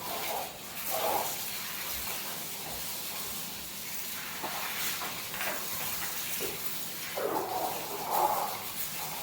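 Streams of milk hissing into a pail as a buffalo is milked by hand.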